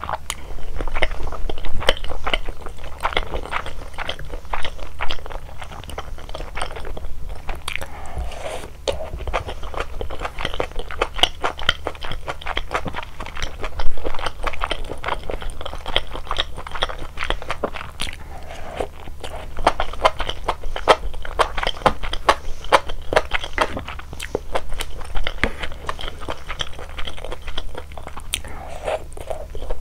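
Close-miked eating of malatang: continuous chewing with many crunchy bites and crackling mouth sounds, the loudest bite about 14 seconds in. A faint steady low hum lies underneath.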